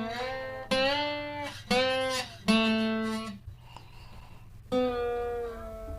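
Guitar played with a slide: a phrase of single sustained notes, about five, each gliding into its pitch, with a short pause a little past the middle.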